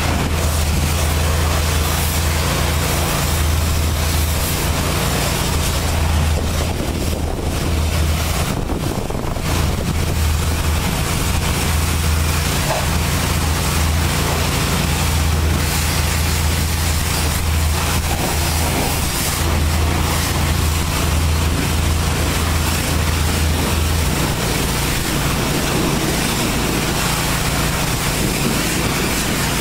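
Automated touchless truck wash running: a steady rush of high-pressure water spray over a low machine hum. The hum falls away about three-quarters of the way through.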